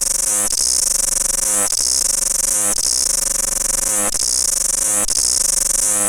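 Cicadas singing loudly: a steady high buzz that pulses about once a second, each pulse ending in a brief dip and a lower sliding note.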